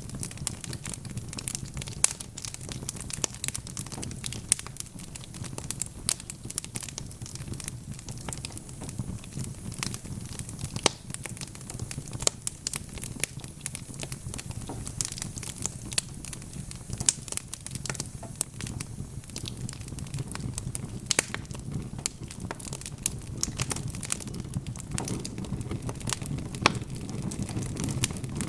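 Wood fire crackling: dense sharp pops and snaps over a low steady rumble of burning logs.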